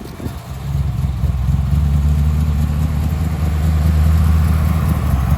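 Muscle car engine running at a steady low idle. It grows louder over the first two seconds, then holds steady.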